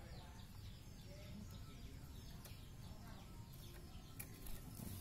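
Faint bird chirps: a string of short, quick calls that slide downward.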